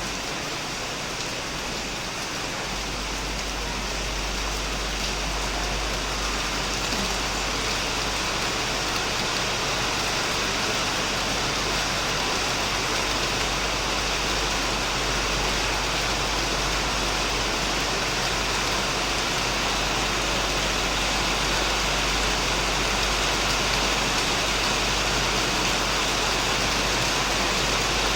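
Heavy rain falling steadily on a shed and plants, a dense even hiss. A low rumble joins about two and a half seconds in, and the rain grows slightly louder.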